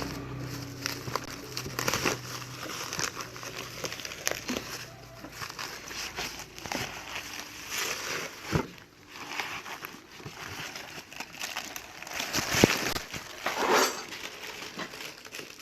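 Irregular crinkling and rustling with scattered clicks and knocks.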